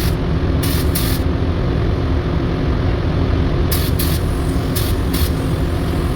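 Spray gun hissing in several short bursts, laying on primer, over a steady low machine hum from the shop's equipment.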